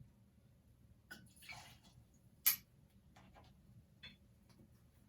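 Faint clinks and taps of bar tools and glass while tequila is measured into a cocktail mixer, with a short pouring sound and one sharper clink about halfway through.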